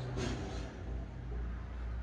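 Jeep Comanche engine idling with a steady low hum, and a brief rustle or scrape just after the start.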